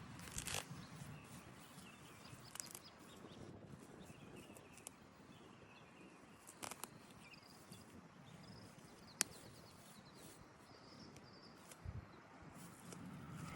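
Quiet outdoor ambience with faint bird chirps and a few scattered clicks, the sharpest one about nine seconds in.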